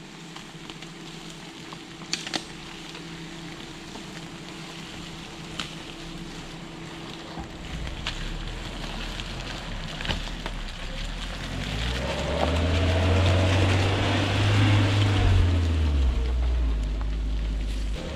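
Suzuki Jimny's engine running at low speed on a rough dirt track, with a couple of sharp knocks about two seconds in. About two-thirds of the way through the engine grows louder as it works harder, then eases a little near the end.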